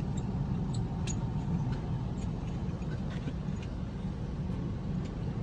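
Steady low rumble of a car's engine heard from inside the cabin, with a few faint clicks.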